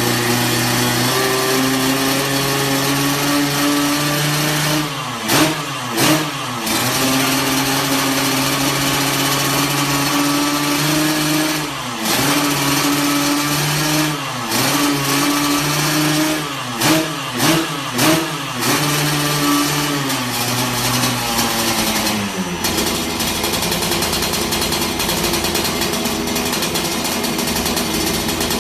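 Tuned Yamaha RX-King two-stroke single-cylinder engine, bored up to 155cc, running steadily and revved in short throttle blips: a pair, then single blips, then three in quick succession. Near the end it settles to a lower, steady idle.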